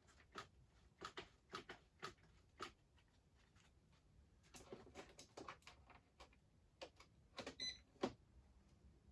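Faint, irregular clicks and light knocks, about a dozen, with the loudest knock near the end.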